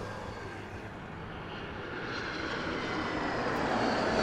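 Jet airliner engines, a steady rushing noise that grows gradually louder as the aircraft draws nearer.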